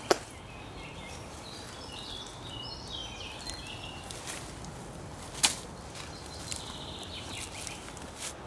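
Birds chirping in the surrounding woodland, in two short spells of quick notes over a steady outdoor background, with one sharp click about five seconds in.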